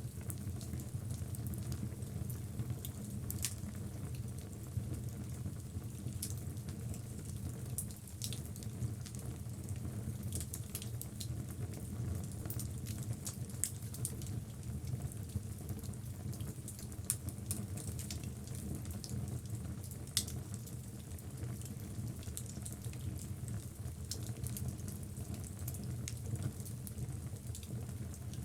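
Logs burning in a fireplace: a steady low rush of flame with irregular sharp crackles and pops, a few of them louder.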